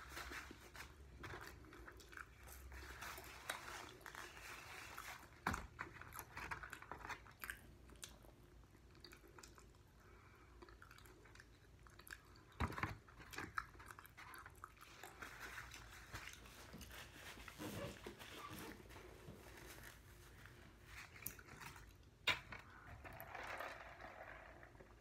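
Close chewing and biting of chicken wings: soft, irregular mouth sounds with a few sharp clicks.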